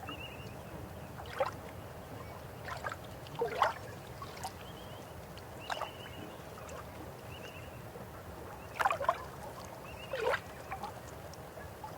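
Steady flow of river water, broken by about six short, louder sounds, the strongest around three and a half and ten seconds in, with faint short chirps over the water.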